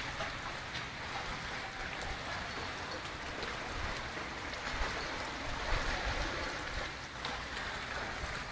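Heavy rain falling steadily: a dense, even hiss with scattered drops.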